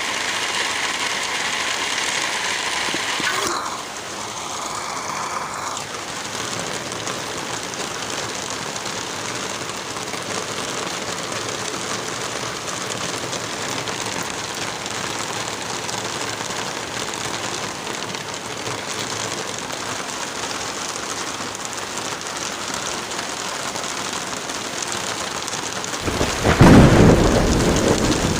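Light rain falling with wind through trees, a steady hiss; a few seconds in the sound thins and drops a little in level. Near the end a loud, low rumble swells for about two seconds.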